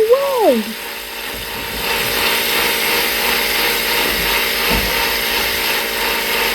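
Washing machine running: a steady mechanical whirring that starts about a second in and grows louder near two seconds. It opens on the tail of a wavering tone that falls away.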